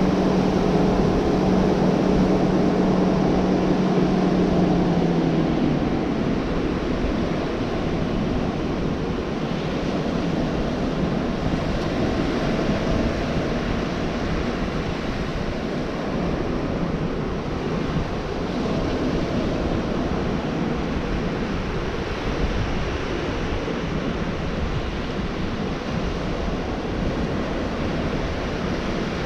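Gulf surf washing steadily onto the beach, with wind. A steady engine hum is heard over it for the first five or six seconds and then fades away.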